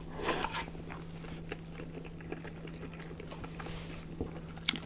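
Close-miked eating sounds: a bite into a fast-food burger just after the start, then soft chewing with small mouth clicks and one sharper click near the end.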